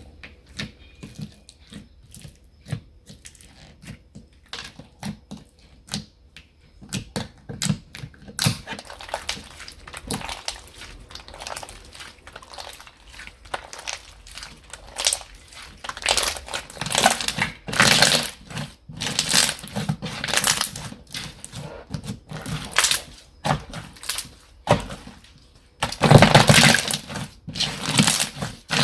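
Hands poking, pressing and stretching slime, making sticky clicks and pops that start sparse, then come thicker and louder, with a longer loud run of popping near the end.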